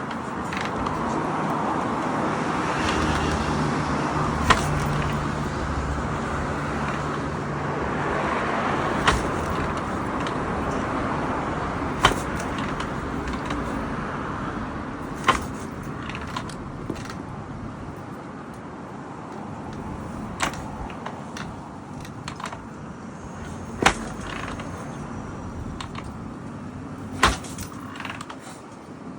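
Harley-Davidson Ironhead XLCH being kicked over without the engine catching: a single sharp knock every few seconds, seven in all, over steady background noise.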